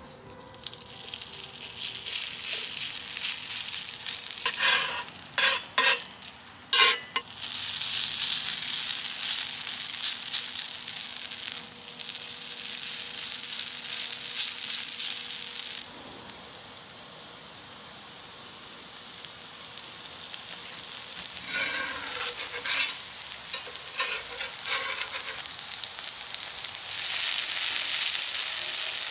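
Shredded potato and crab stick frying in hot oil in a cast-iron pan. The sizzling swells as fresh handfuls go in, with bursts of sharp crackling a few seconds in and again past the middle. It settles quieter for a while, then grows loud again near the end.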